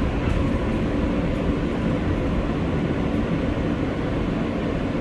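Steady low rumble inside an R143 subway car on the L line, with no sudden sounds.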